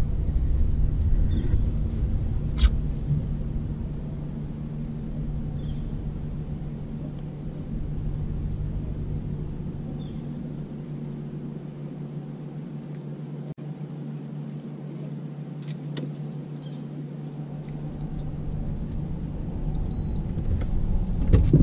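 Boat motor running steadily with a low hum, and a few sharp knocks.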